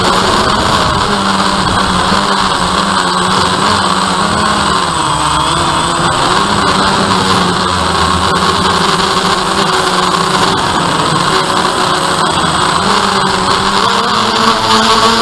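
DJI Phantom quadcopter's motors and propellers running in flight, a loud steady whine and hum whose pitch wavers slightly as the drone adjusts its speed.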